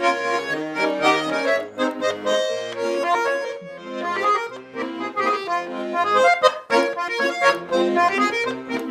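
Bayan, a Russian button accordion, playing a lively folk tune: right-hand chords and melody over bass notes that change on a steady beat, as the instrumental lead-in to a sung Russian folk song.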